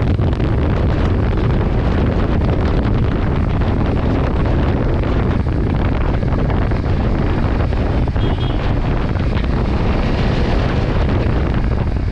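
Wind buffeting the microphone on a moving motorcycle, with the engine and road noise running steadily underneath.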